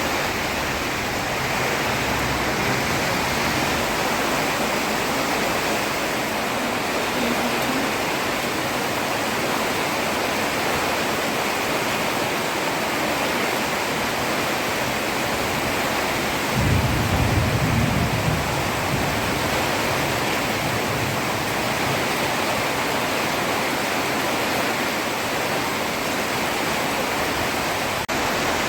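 Heavy rain pouring steadily onto a road, an even hiss. About two-thirds of the way through, a low rumble swells for a couple of seconds over the rain.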